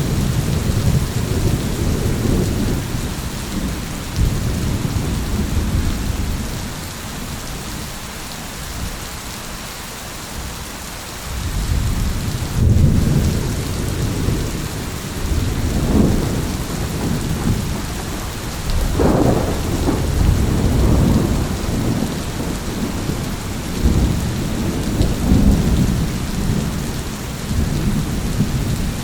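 Steady rain with rolling thunder: low rumbles that die down for a few seconds, then build again from about eleven seconds in, with a sharper crack near the middle of the stretch.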